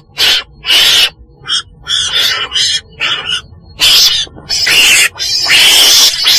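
Weasel (Mustela) calling: a string of about nine noisy, screechy cries, some short and some up to about half a second, the later ones longer and louder.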